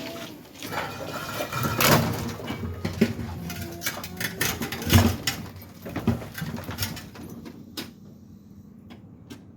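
A series of irregular knocks and clanks, loudest about two and five seconds in, thinning out to a few scattered clicks near the end.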